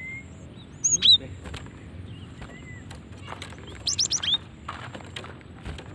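Female cinereous tit (gelatik batu) calling: a sharp high chirp about a second in, then a quick run of four or five high, falling notes about four seconds in.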